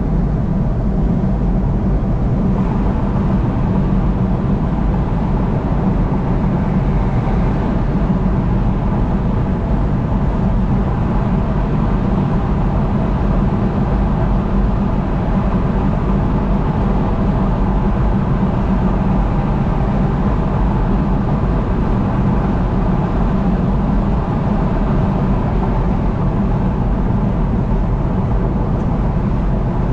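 Vehicle travelling at highway speed: a steady, unbroken drone of engine and tyre noise, strongest low down.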